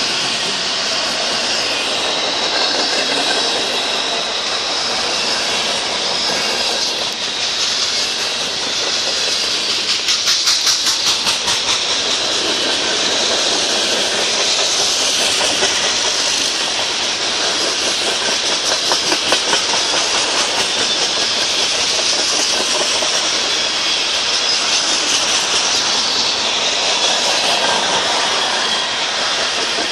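Freight cars rolling past at speed: steady wheel-on-rail running noise with a hiss. A quick run of wheel clicks comes about ten seconds in.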